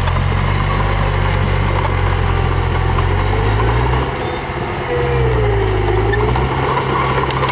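Diesel engine of a bulldozer or dump truck running steadily, its engine speed dropping and changing about halfway through before settling again.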